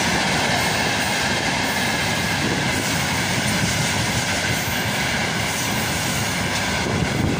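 Open-top freight gondola wagons of a long freight train rolling past close by: a steady rumble of steel wheels on rail, with a steady high-pitched tone running over it.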